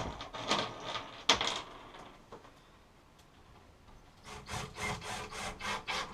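Wood being worked by hand: a few rough scrapes and rubs, a quiet pause, then a quick run of even back-and-forth strokes, about five a second, near the end.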